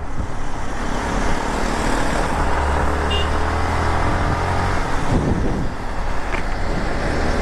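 Motorcycle riding noise on the road: engine hum and rushing wind with traffic. Something sweeps briefly about five seconds in, like a vehicle passing.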